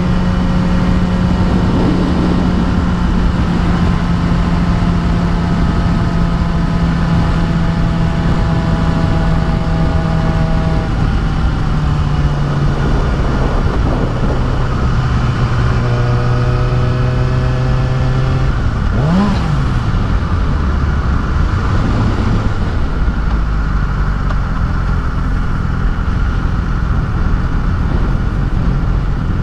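Suzuki GSX-R sportbike's inline-four engine running under way, with steady wind rush on the microphone. The engine note steps down in pitch as the bike slows, gives one quick rev blip about two-thirds of the way through, then settles to a low, near-idle note.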